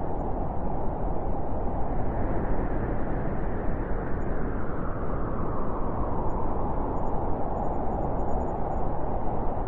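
Wind blowing in a steady low rush, its hissing upper part swelling and easing off slowly over a few seconds.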